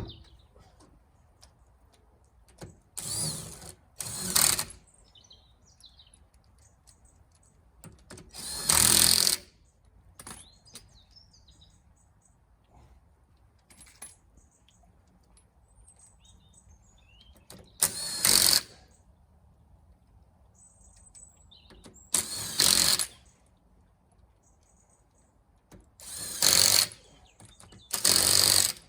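A power tool spinning wheel bolts in and out in about seven short bursts, each lasting about half a second to a second, with faint birdsong between them.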